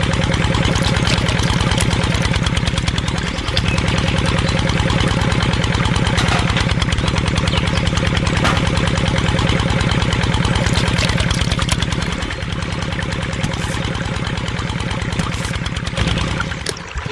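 Small engine of a mini DIY tractor running with a fast, even putter, breaking up near the end.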